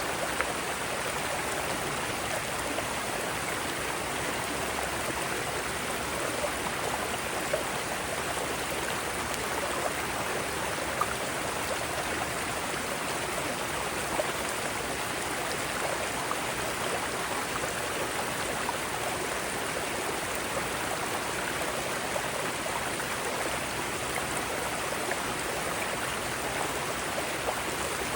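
Mountain stream flowing over rocks: a steady rushing of water with small splashes, even and unbroken.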